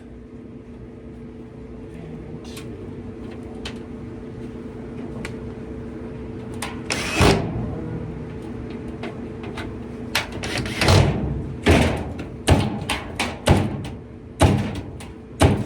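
A steady mechanical hum that fades out about two-thirds of the way in, then a run of sharp knocks and bangs about one a second, from a sheet-metal Kenmore dryer cabinet being handled and opened up.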